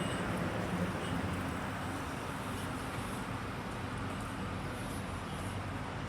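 Steady low rumble of road traffic with an engine hum.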